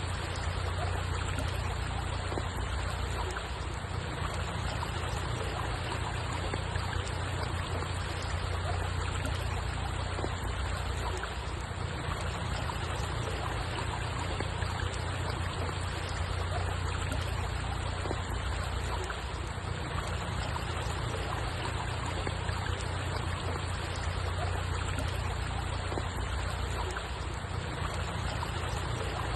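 Steady running-water ambience, an even rushing noise with a low rumble underneath and no distinct events.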